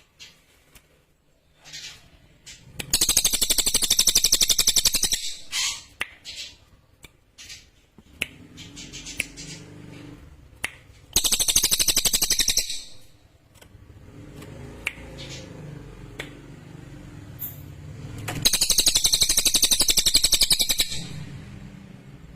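Cililin songbird singing three bursts of a rapid, high, sharp trill, each lasting about two seconds, with scattered short chips between them.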